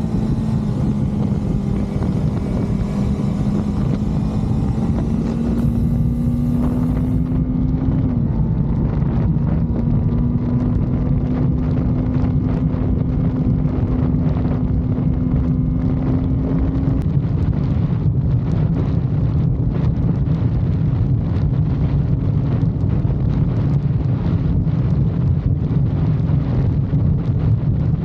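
Motorcycle engine running under way at a steady speed, with wind rushing over the microphone. The engine note dips about eight seconds in, climbs slowly, then holds level.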